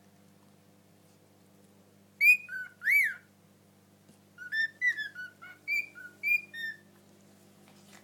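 Pet parrot whistling a tune in clear, high notes: a couple of loud notes about two seconds in, then a quicker run of about eight notes from about four and a half to seven seconds.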